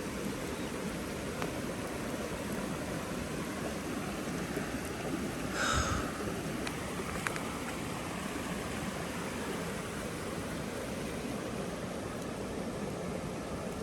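Mountain stream rushing steadily over rocks, with one brief sharper noise about six seconds in and a few faint clicks.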